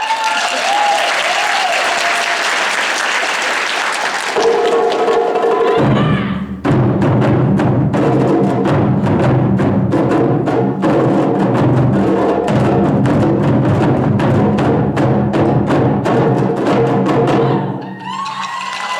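Taiko drum performance: a wash of sound with a wavering high melody opens it, then from about six seconds in the drums play a fast, dense run of strokes over sustained low tones. It stops just before the end.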